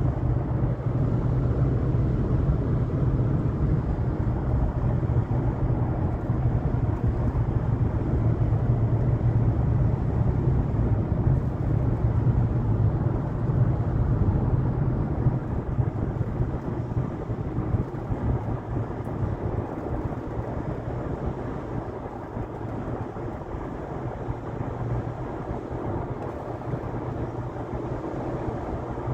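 Car driving along a road: a steady low drone of engine and tyre noise that eases slightly in the second half.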